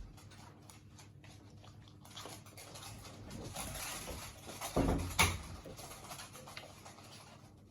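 Havanese puppies scrabbling and shuffling about in their pen, a soft rustling patter that builds and fades, with a couple of sharp bumps about five seconds in.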